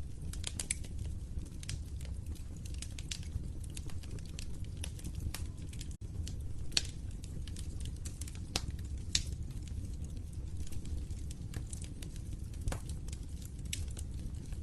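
Wood fire burning in a fireplace: a steady low rumble of flames with irregular sharp crackles and pops from the burning logs, the loudest about seven and nine seconds in.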